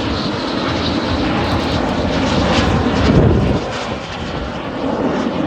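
F-16 fighter jet passing during a demo flight, its loud engine noise building to a peak about three seconds in and then easing off.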